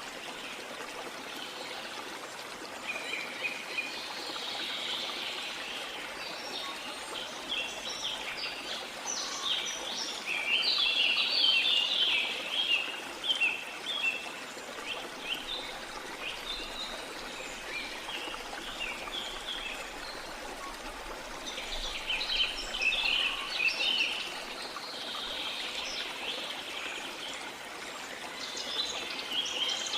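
Steady rush of running water with birds chirping and singing over it in bursts, busiest about a third of the way in and again after two thirds.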